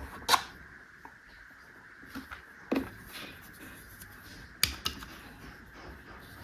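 Plastic toy parts and packaging being handled, giving a handful of sharp clicks and taps with faint ticking and rustling between them.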